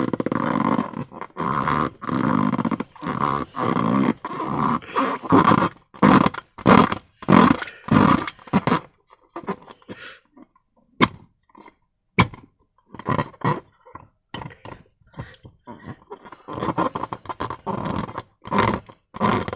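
Rubbery squeaks and squelches from slime being worked in and against a balloon, in short strokes that come quickly one after another. About halfway through it pauses, with two sharp clicks.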